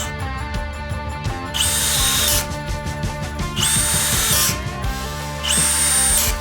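Milwaukee M18 FUEL brushless hammer drill/driver running in three short bursts of about a second each, each starting with a rising high whine. Background music plays underneath.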